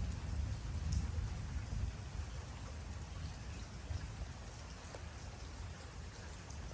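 Steady rain falling, with scattered individual drops ticking sharply, over a low rumble that is strongest in the first couple of seconds and then eases off.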